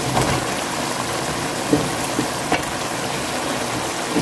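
Chicken curry sizzling steadily in a pot. Chunks of bottle gourd are dropped in, with a few short knocks around the middle.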